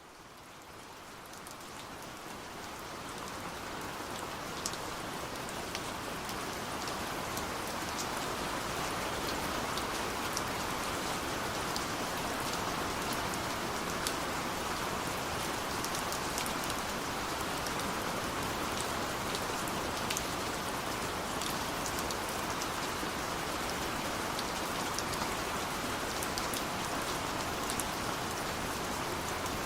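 Steady rain falling, with individual drops ticking sharply among the even hiss. It fades in gradually over the first several seconds, then holds level.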